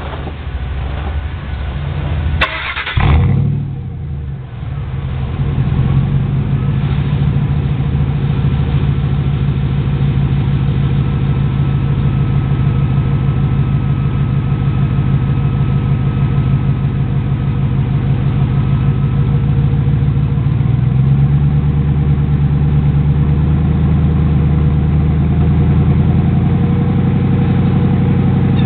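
1999 Ford Expedition's 5.4-litre V8 with its muffler deleted, started up: a short crank and catch about two and a half seconds in, then a steady idle through the open exhaust. The idle note shifts slightly about two-thirds of the way through.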